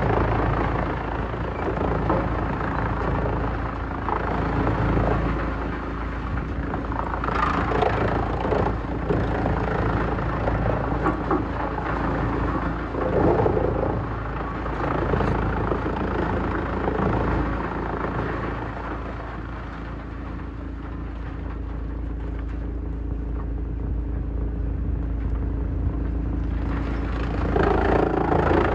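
Heavy-duty wood shredder running, its engine droning steadily. Louder, irregular stretches of wood being shredded come and go, about a quarter of the way in, near the middle and again near the end.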